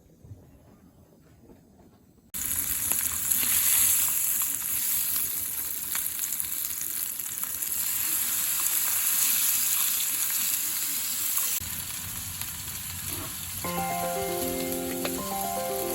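Food frying in a pan, a steady loud sizzle that starts suddenly a couple of seconds in after near silence, with background music beginning near the end.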